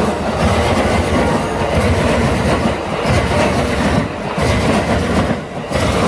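Amtrak Silver Star passenger train rolling past, a loud steady rush of wheels on rail with clickety-clack from the cars, with brief dips in level about four seconds in and near the end.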